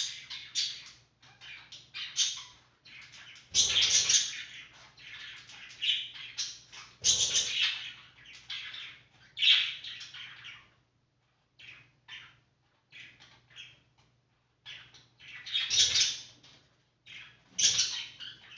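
Small pet birds calling in rapid runs of short high chirps, with about five louder bursts of calls and a few brief lulls, over a faint steady low hum.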